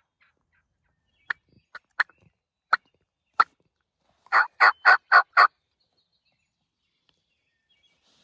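A hunter's turkey call imitating a hen: five sharp, scattered clucks, then a quick run of five loud yelps, used to coax a gobbler into answering.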